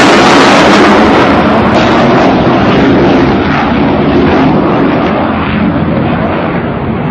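Loud continuous roar of an aircraft or missile engine, slowly fading and growing duller as it moves away.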